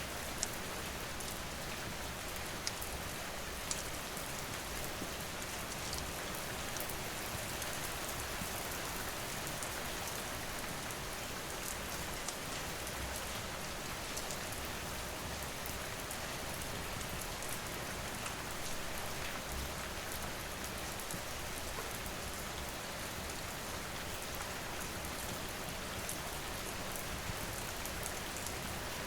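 Steady rainfall with a constant hiss, with occasional sharp crackles from a wood fire scattered through it.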